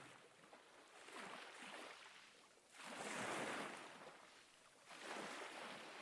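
Ocean waves washing in and receding, a soft rushing that swells and fades, with the biggest surge about three seconds in and a smaller one near the end.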